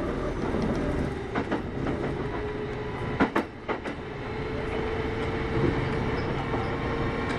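Kintetsu 8810 series electric train running at speed, heard on board: a steady rumble of wheels on rail with a hum from the running gear. A quick run of sharp rail-joint clacks comes a little past three seconds in, and a steady humming tone sets in soon after.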